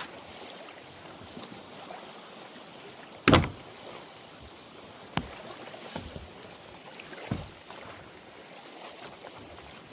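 Kayak being paddled, with water sounds throughout and one loud sharp knock about a third of the way in, then three lighter knocks.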